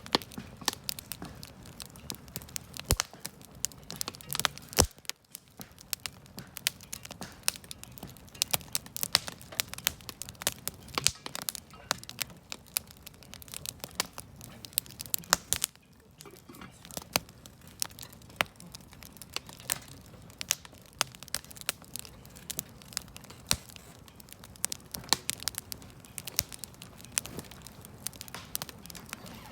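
Wood campfire burning, crackling and popping continuously with many sharp snaps at irregular intervals over a low steady rumble of the flames.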